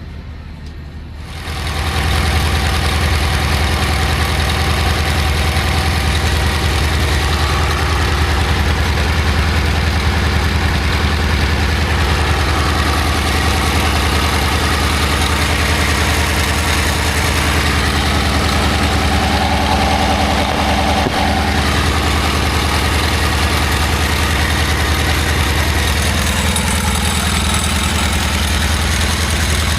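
A stationary internal-combustion engine running steadily, loud and close, with an even low firing beat, starting about a second and a half in.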